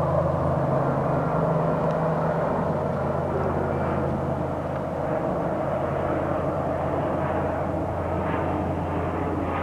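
A steady engine drone with a low hum, part of which fades out about two and a half seconds in.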